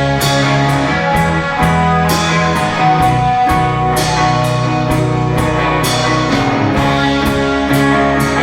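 An indie rock band playing live, with electric guitars, bass guitar and drum kit. Sustained guitar chords ring over a steady bass line, and cymbal hits come about twice a second.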